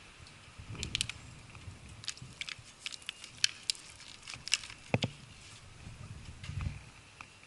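Handling noise close to the microphone: scattered clicks and taps with a few dull thumps, the loudest knock about five seconds in. No engine is running.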